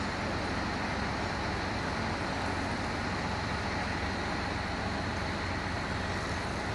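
Steady hum of vehicle engines and road traffic, even and unchanging throughout.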